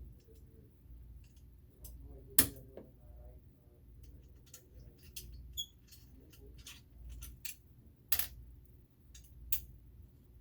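Scattered clicks and knocks from objects being handled, the two loudest about two and a half seconds in and about eight seconds in, over a low steady hum.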